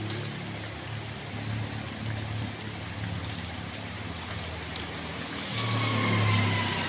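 Steady rain falling, with a motor vehicle's engine running underneath. Near the end it grows louder, with a slowly falling whine as a vehicle passes.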